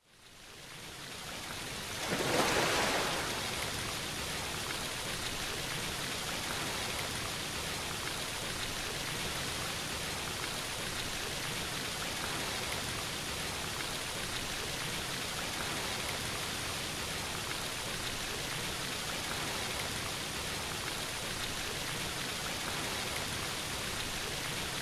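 Steady, even rushing noise with no tone or rhythm. It fades in, swells briefly about two seconds in, then holds level.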